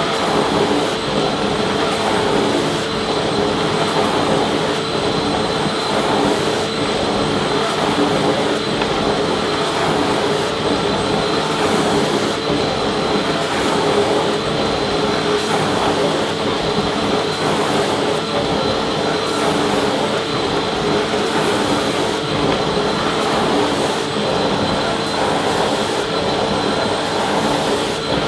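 Vacuum cleaner running steadily: a continuous rushing whoosh of motor and airflow with a steady hum.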